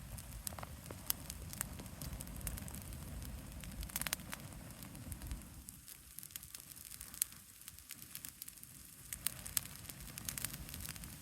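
Pine-wood bonfire crackling, with sharp pops scattered throughout and a cluster of them about four seconds in, over a steady low rumble.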